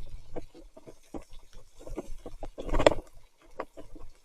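Mountain bike riding over a wet, muddy trail: irregular knocks, rattles and splashes of the bike on rough ground, with one louder burst about three seconds in.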